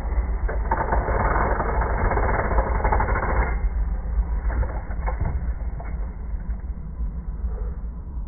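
1/14-scale RC dump truck working: a rough, crunching drive noise in the first few seconds, then a few sharp knocks, over a steady low rumble.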